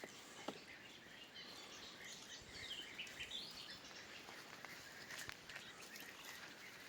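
Faint bird chirps over quiet outdoor ambience, with a few scattered light clicks.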